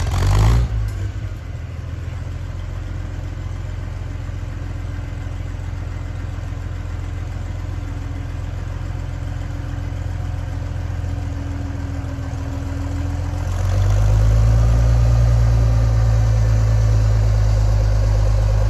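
An engine idling steadily, growing louder about thirteen and a half seconds in, with a brief clunk right at the start.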